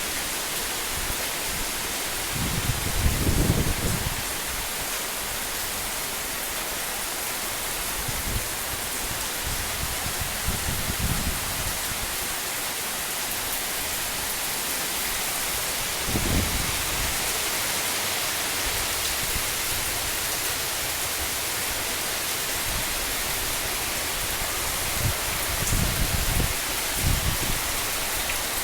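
Heavy rain pouring steadily, an even hiss, with a few brief low rumbles rising above it.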